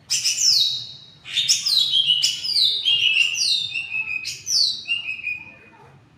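A cucak ijo (green leafbird) singing in full song: a run of about six loud, whistled phrases, each sweeping down in pitch and settling on a lower note. The song trails off near the end.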